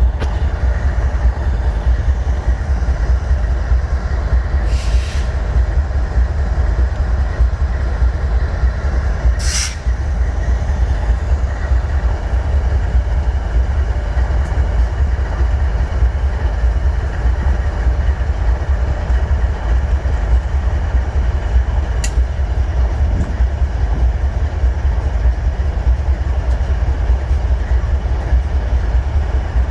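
BNSF freight train running on the tracks: a loud, steady rumble, with a few brief sharp noises about 5, 10 and 22 seconds in.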